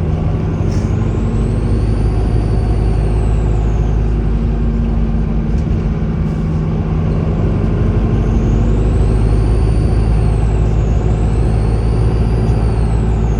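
Volvo B5LH hybrid bus's diesel engine running steadily, its turbocharger whistling in high-pitched sweeps that rise and fall. One sweep comes early, then several in a row from about eight seconds on.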